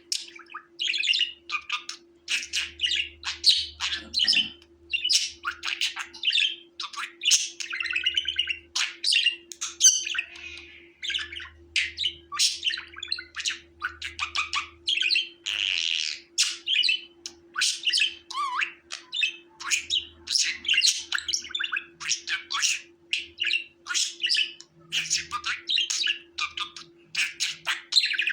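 Budgerigar chattering and warbling non-stop: a rapid, unbroken run of short chirps, squeaks and squawks.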